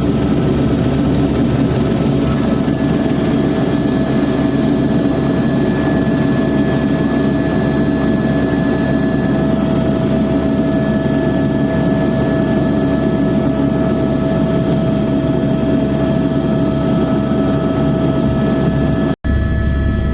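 Helicopter in flight: a loud, steady engine and rotor drone with a steady whine over it. It cuts out for an instant near the end and comes back slightly changed.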